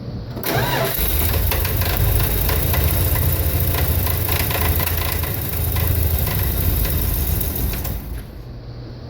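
A Dodge 318 V8 with an Edelbrock 600 four-barrel carburetor suddenly surges from a steady idle into a loud, crackling backfire rattle for about seven seconds, then settles back to idle. It is the fluctuating, rough idle that followed swapping the original Carter Thermoquad for the Edelbrock; the owner suspects ignition timing, fouled spark plugs or the EGR valve.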